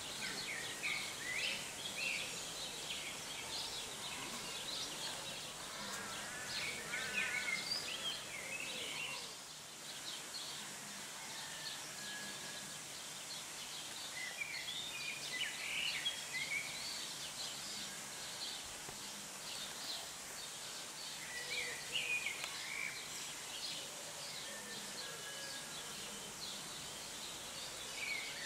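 Small songbirds chirping and twittering on and off, with short warbled phrases, over a faint steady background noise of the open air.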